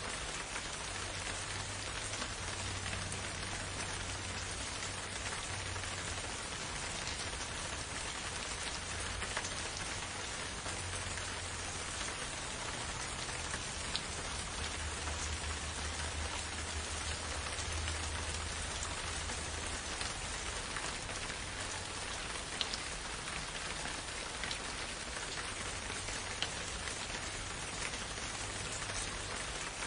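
Steady rain falling, an even hiss with occasional sharper drops standing out.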